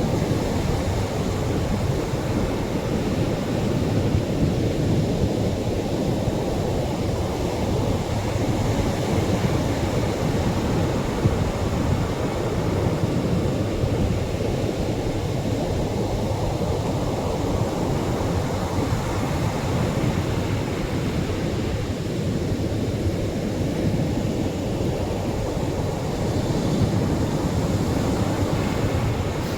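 Atlantic surf on a beach: a steady low rumble of waves, swelling slightly now and then.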